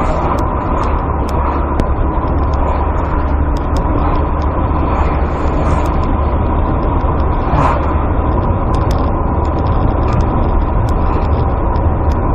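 Steady road and engine noise of a moving car, heard from inside the cabin through a dashcam microphone, a constant low rumble with a faint steady tone above it.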